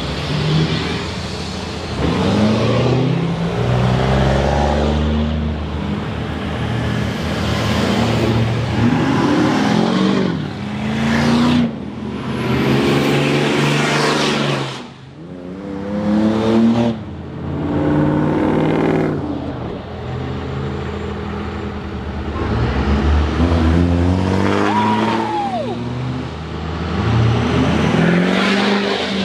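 Pickup truck engine accelerating hard several times, its pitch climbing then dropping as it shifts and climbs again, with a faint high whistle rising now and then.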